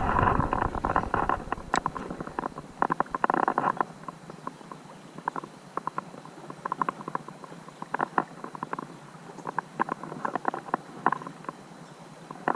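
Creek water splashing and gurgling in short irregular bursts, busier with some low rumble in the first second, then sparser.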